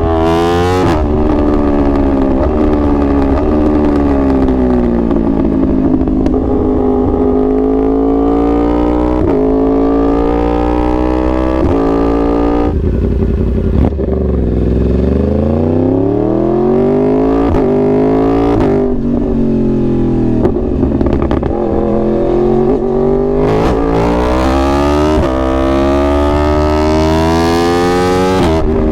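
2021 Yamaha R1's crossplane inline-four engine being ridden hard, with revs climbing and dropping again and again through gear changes. About 13 s in the engine note cuts off, falls away and then climbs back up.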